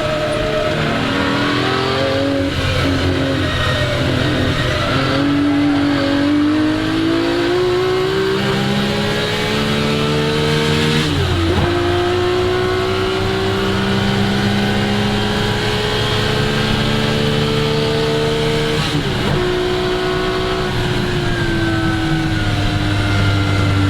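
1961 Ferrari 250 GT SWB's 3-litre Colombo V12 under hard acceleration, its pitch climbing through the revs. It is cut short by an upshift about eleven seconds in, and by another near nineteen seconds. After that the revs fall away as the throttle eases and settle near the end.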